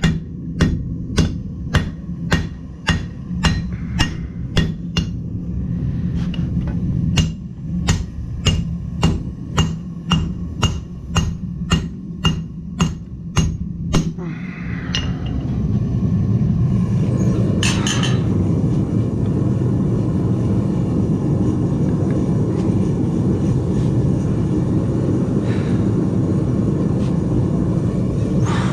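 Hand hammer striking hot steel on an anvil, about two blows a second, with a short pause about five seconds in, stopping about 14 seconds in. A steady low forge roar then takes over.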